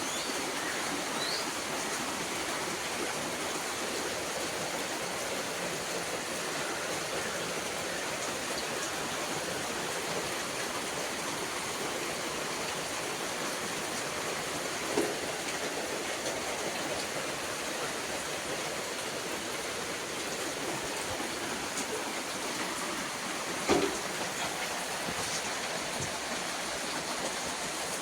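Steady, even rushing noise with no pitch, broken by two short knocks, one about halfway through and one near the end.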